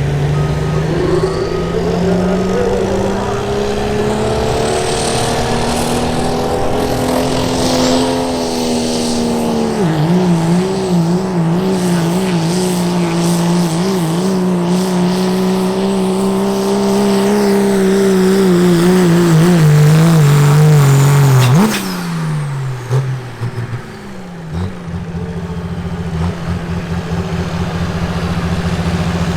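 Diesel pickup engine at full power pulling the sled, its pitch climbing steadily, then wobbling up and down while it holds high revs. About 22 seconds in the engine is let off and its pitch falls quickly, settling into a steady idle near the end.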